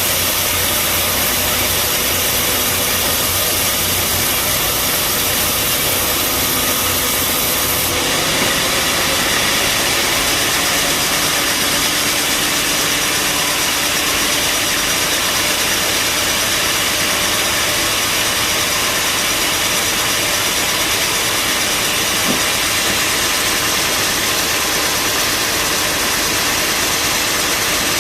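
Band sawmill running with a steady mechanical drone and hiss. About eight seconds in the sound shifts: the low hum drops away and the machine runs on at the same loudness.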